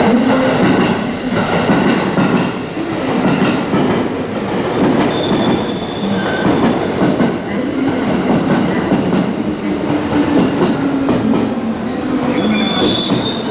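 Electric commuter train running alongside the platform, its wheels rumbling and clattering over the rails. A high, thin wheel squeal comes in briefly about five seconds in and again near the end.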